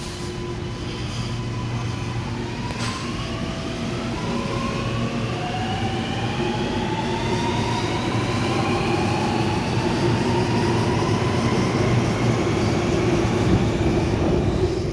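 Electric suburban train pulling away from the platform: its traction motors give several whines that climb in pitch as it gathers speed, over a rumble of wheels on rail that grows steadily louder.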